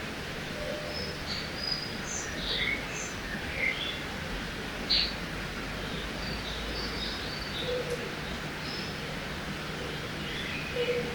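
Forest ambience beside a river: a steady rush of flowing water, with scattered short bird chirps and calls over it throughout.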